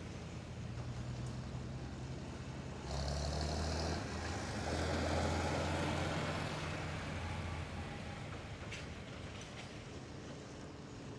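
Vintage farm tractor engines running as tractors drive past. The sound changes suddenly about three seconds in, is loudest for the next few seconds, then fades.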